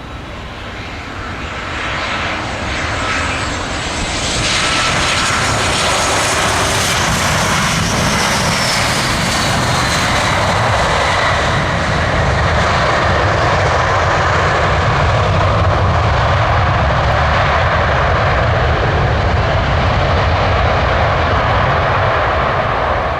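Boeing 737-700's CFM56 turbofan engines passing on landing. A high whine falls in pitch as the jet goes by, over loud, steady engine noise that builds over the first few seconds, holds through most of the rollout and fades near the end.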